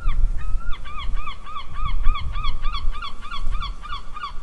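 An animal calling: a couple of longer calls, then a fast run of short, rising-and-falling calls, about four a second. Wind rumbles on the microphone underneath.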